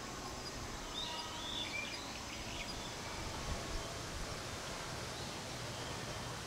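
Steady outdoor background noise, with a few short bird chirps about a second in.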